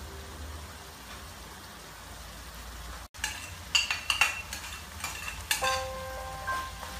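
Chopped meat frying in a wok, a steady sizzle, then a metal ladle clinking and scraping against a ceramic plate and the wok rim as food is scraped off the plate into the pan, a few seconds in.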